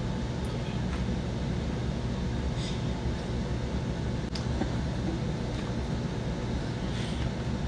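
Steady low mechanical hum of background room noise, with a faint click about four seconds in.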